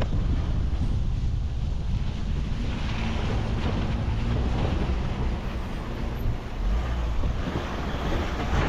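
Volkswagen Amarok pickup driving on a dirt road: a steady low rumble of engine and tyres, with wind buffeting the microphone.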